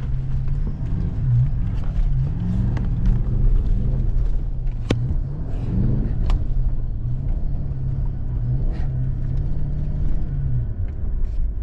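The V8 engine of a Toyota LandCruiser 200 Series 4WD running under load on a sandy track, its revs rising and falling several times. A couple of sharp clicks are heard about five and six seconds in.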